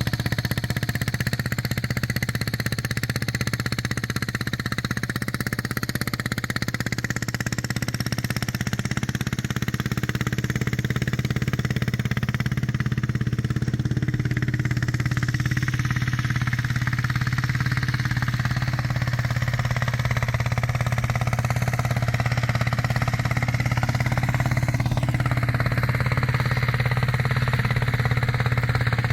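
Small engine of a homemade mini tractor running steadily, with an even low hum and rapid firing pulse, as it pulls a harrow.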